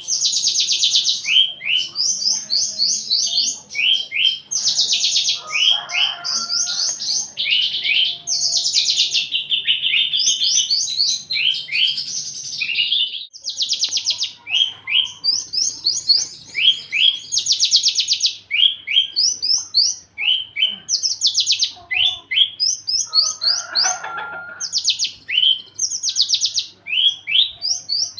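A Javan bushlark (branjangan) sings a continuous, high-pitched song of fast trilled and chattering phrases, with one short pause about halfway through. This is the bird in full breeding condition.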